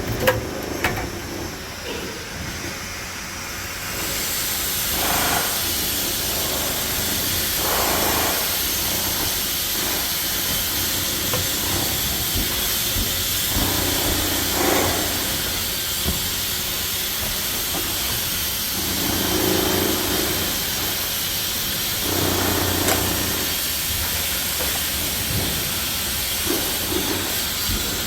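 Steady, loud hissing noise that starts abruptly a few seconds in, with short scraping and knocking sounds now and then.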